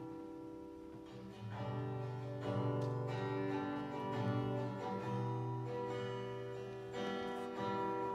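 Acoustic-electric guitar strumming slow chords, each left to ring, with new chords struck about one and a half, two and a half and seven seconds in, heard through the PA during a sound check.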